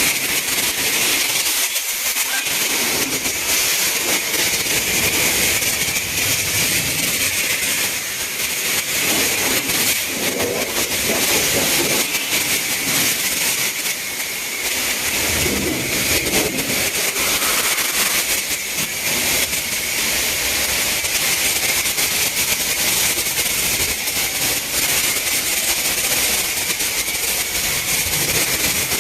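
High-pressure water spraying steadily from a self-serve car wash wand on the rinse setting, a constant loud hiss that shifts a little as the spray moves over the car.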